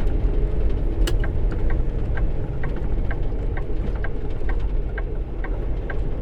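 Semi truck's diesel engine rumbling inside the cab, with the turn signal ticking steadily about twice a second and one sharper click about a second in.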